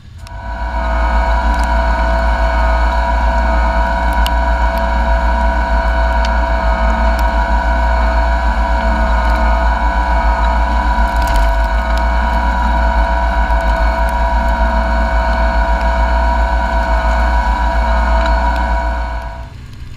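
Fendt 720 tractor's six-cylinder diesel engine running loud and steady at constant working revs under load, with an even low throb. It comes in sharply at the start and drops away near the end.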